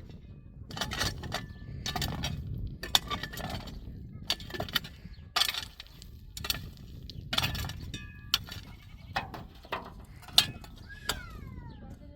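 Irregular sharp clinks and knocks of hard objects being handled, several a second, with a sheep or goat bleating once near the end.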